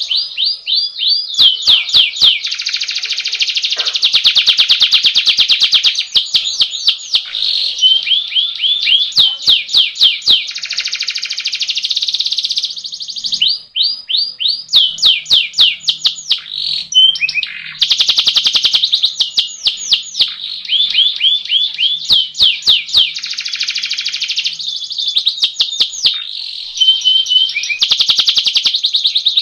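Domestic canary singing a long, loud, continuous song of fast rolls and trills, phrase after phrase with only brief pauses.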